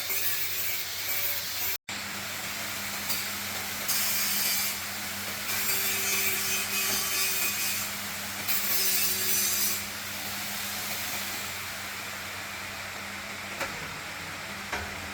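Several long scraping strokes of a hand tool working a surface, like sawing or sanding, about a second or two each between roughly four and ten seconds in, over a steady low hum.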